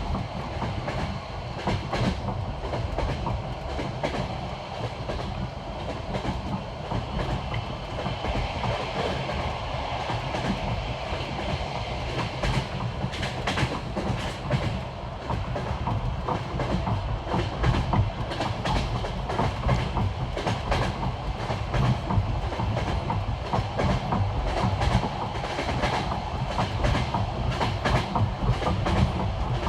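Passenger railway carriage wheels clicking over the rail joints of jointed, bolted track: a continuous rapid clickety-clack over the steady rumble of the moving carriage.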